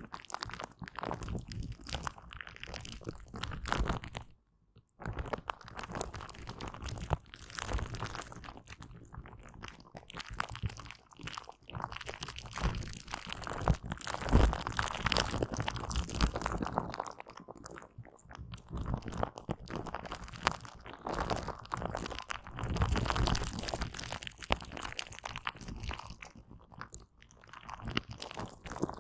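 Aloe vera gel being wiped and squished close to the microphone: a dense, irregular run of wet, sticky crackles and clicks, cut off by a brief silence about five seconds in.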